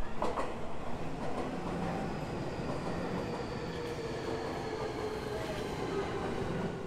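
Keio 1000 series electric train running by, with rail noise and a faint motor whine that falls slowly in pitch. The sound cuts off suddenly at the end.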